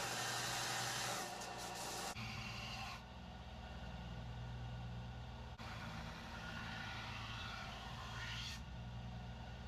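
Electric belt grinder with a 60-grit belt sanding a forged Damascus blade: a grinding hiss over a steady motor hum for the first two seconds, then the motor hum alone through several abrupt cuts.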